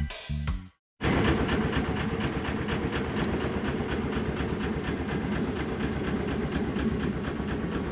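A music track ends in the first second. Then a sailboat's engine runs steadily, with a fast, even, rhythmic beat over a low rumble.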